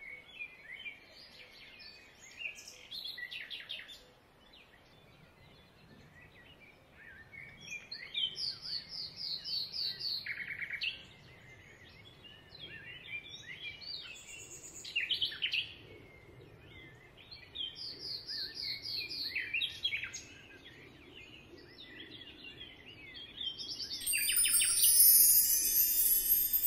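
Birds chirping and singing, with short calls and quick repeated trills. Near the end a louder, bright, high-pitched shimmering sound comes in.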